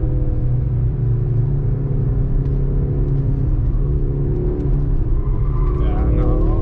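Mercedes-AMG C63 S E Performance's 2.0-litre turbocharged four-cylinder engine heard from inside the cabin, running at fairly steady revs under way, then rising in pitch near the end as the car accelerates.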